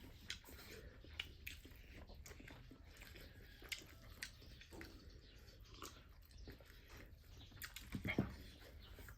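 Close-up mukbang eating sounds: chewing with scattered wet clicks and lip smacks, and a louder short sound about eight seconds in.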